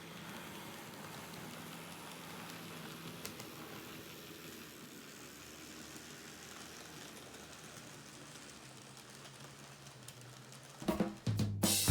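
Model train running on the layout track: a steady, even rolling whir with a faint low hum. Background music comes back near the end.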